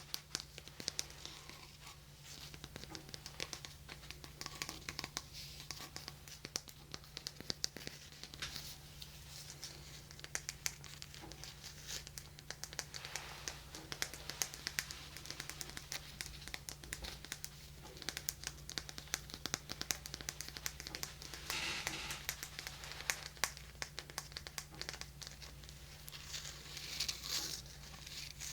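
Dense, irregular crackling and scratching right at a 3Dio binaural microphone: ASMR rubbing and scratching triggers, over a steady low electrical hum.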